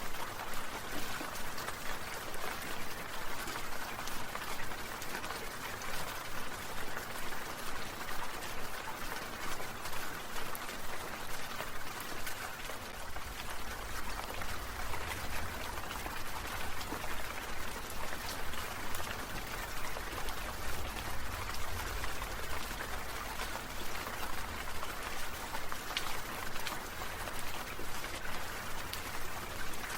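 Water sprinklers spraying, a steady hiss of falling droplets that pulses in a quick, even rhythm. A low rumble joins about halfway through.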